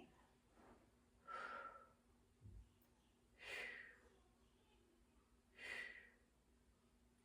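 A woman breathing out hard through repeated glute bridges: three airy exhales about two seconds apart, with a soft low thump between the first two.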